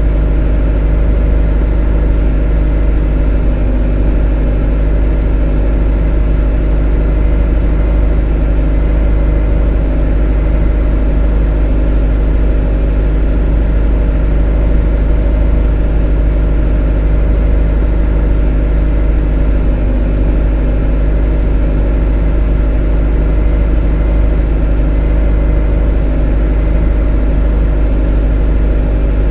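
A motor running at one unchanging speed: a strong deep hum with a stack of steady tones above it.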